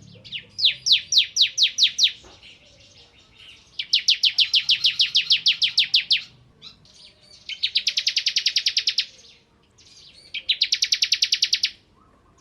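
Bar-winged prinia (ciblek) singing in loud, rapid trills of repeated sharp notes, each note sweeping downward. There are four bursts of about one and a half to two and a half seconds each, separated by short pauses. The later bursts are faster.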